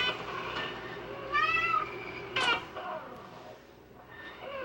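Domestic cat meowing: one rising-and-falling meow about a second and a half in, then a short, sharply rising call about a second later.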